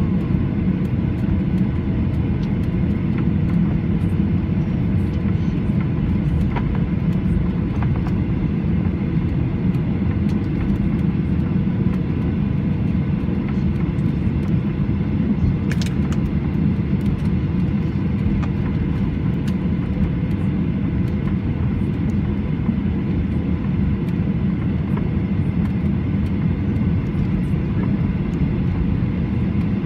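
Cabin noise inside a Boeing 737-800 taxiing on the ground: a steady low rumble of the CFM56 engines at idle and the rolling wheels, with faint steady tones. A few light clicks, and one brief sharp tick about 16 seconds in.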